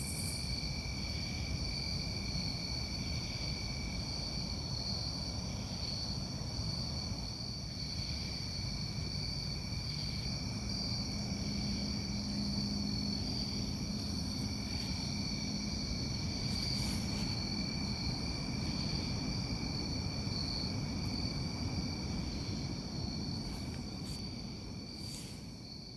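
Chorus of crickets: a steady, high-pitched trilling that holds without a break over a low background rumble, with a faint low hum in the middle.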